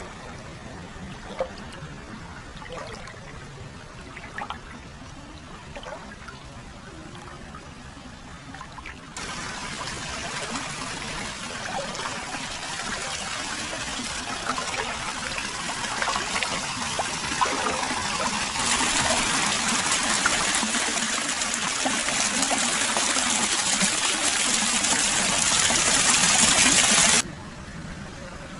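Hot spring water flowing into a foot bath, trickling and splashing. Gentle trickling with a few drips at first, then the pouring water suddenly becomes much louder about a third of the way in, louder again about two thirds in, and cuts off abruptly near the end.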